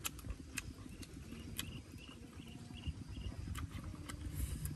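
A person chewing food with wet mouth smacks: a few sharp, irregularly spaced clicks over a low rumble.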